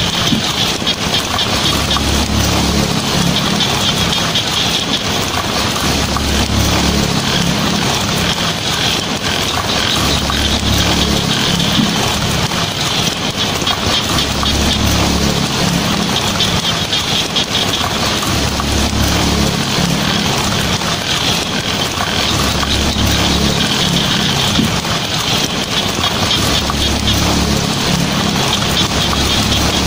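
Heavy rain drumming on a tin roof: a dense, steady patter of drops on metal. Under it, a low rumble swells and fades about every four seconds.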